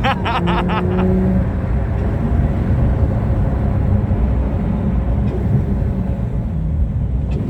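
Porsche 911 driving, its engine and road noise making a steady low rumble heard from inside the cabin.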